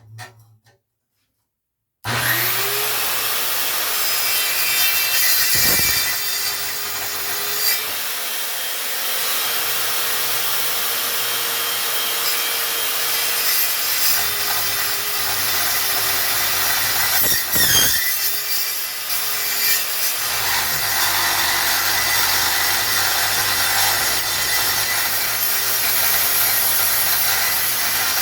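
Evolution metal-cutting circular saw starting up about two seconds in and then cutting steadily through half-inch-wall steel rectangular tubing: a loud, harsh cutting noise over the motor's hum, which dips and recovers now and then as the blade is loaded.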